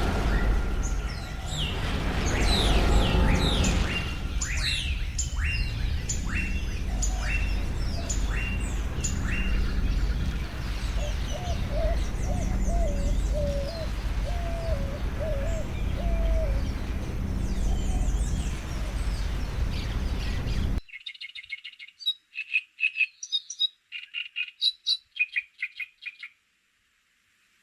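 Wild birds calling over a steady low background noise. There is a series of sharp down-slurred calls about one a second, then a lower warbling phrase. About 21 seconds in the sound cuts abruptly to a quieter recording of rapid clicking chirps in short trains.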